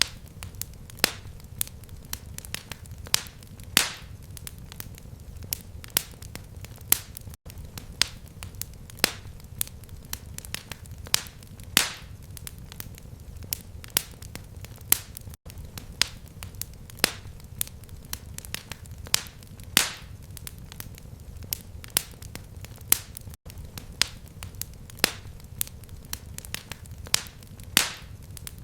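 Fireplace fire crackling: sharp pops and snaps, irregular, one to three a second, over a low steady rumble of flames. The sound cuts out for an instant about every eight seconds.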